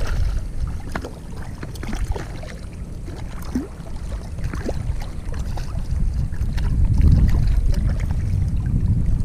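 Low rumble of wind buffeting the microphone over water lapping, with scattered small splashes and clicks. The rumble is heaviest in the last few seconds.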